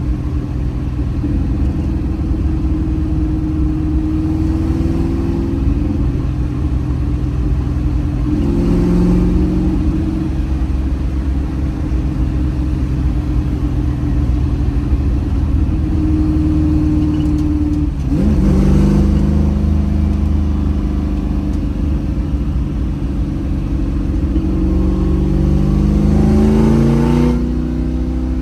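1965 Mustang Fastback's 347 stroker small-block V8 driving, its pitch climbing and dropping several times as it is revved through the gears, with a sudden drop about eighteen seconds in and a climb near the end. A deep low rumble runs underneath.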